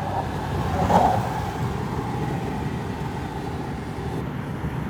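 Ram 2500 pickup with its 6.4-litre Hemi V8 cruising on the highway, heard from inside the cab: a steady low engine and road rumble, with a brief louder rush about a second in.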